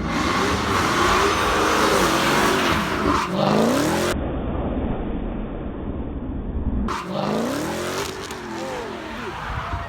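A performance car accelerating hard, its engine revving up and down repeatedly, with tyre noise.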